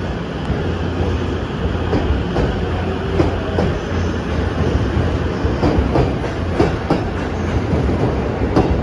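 E257 series 2000 electric multiple unit pulling out of the station, a steady low hum under wheels clicking over rail joints and points. It gets slightly louder as it goes.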